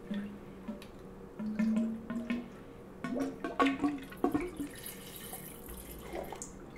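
Red wine pouring from a glass decanter, gurgling and dripping in short glugs, with a few small clicks.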